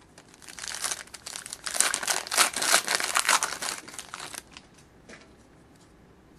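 Foil wrapper of a hockey trading-card pack crinkling and tearing as the pack is opened, for about four seconds, then a few faint ticks as the cards are handled.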